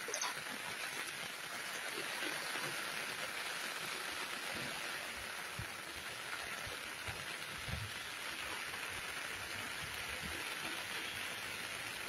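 Steady hiss of heavy rain falling on wet paving and a water-covered road.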